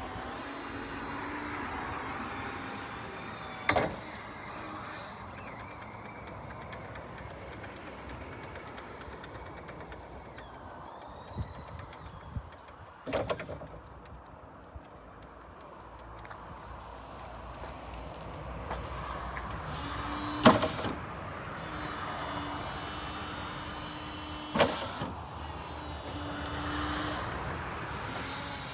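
Still RX 60-25 electric forklift at work: its electric motors whine in stretches over a steady mechanical hum, with a few sharp clunks.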